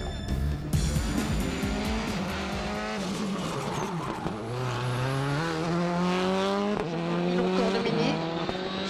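Rally car engine accelerating hard through the gears, its pitch climbing, dropping at a gear change and climbing again.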